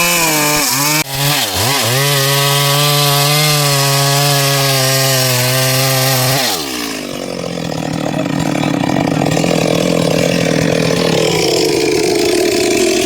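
Stihl MS 382 two-stroke chainsaw at full throttle, its revs dipping twice in the first second and a half, then running steady and high. About six and a half seconds in the engine speed drops sharply. It runs on rougher and lower under load in the dry wood, slowly climbing in pitch.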